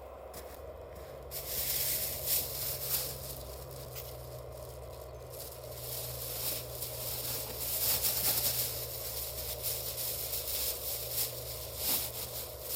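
Irregular rustling and scraping, starting about a second in and coming and going in short scratchy bursts over a steady low hum.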